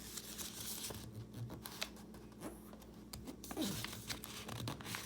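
A sheet of printer paper rustling and crinkling as it is handled and folded, with scattered short crackles.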